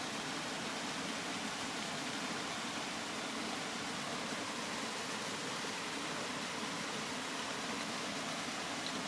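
Steady rain, an even hiss that doesn't change and has no separate drops or thunder.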